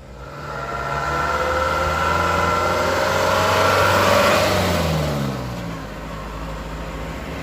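Truck driving past, its engine note swelling to a peak about four seconds in, then dropping in pitch and fading.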